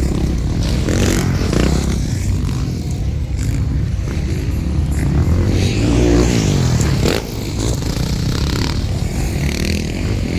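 Motocross bikes racing, their engines revving up and down as they go round the track.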